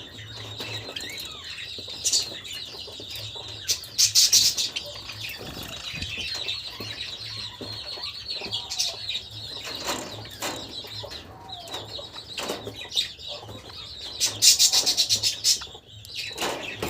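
Pet Java sparrows chirping steadily, with two loud bursts of rapid wing flapping, one about four seconds in and one near the end.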